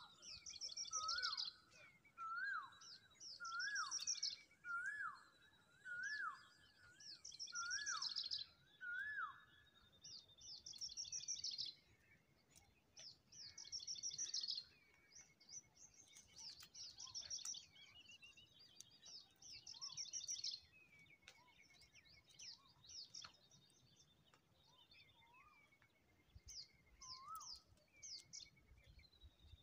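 Birds calling: high, rapid trilled bursts about a second long, repeating every two to three seconds, and over the first ten seconds a lower note that sweeps upward, repeated about once a second.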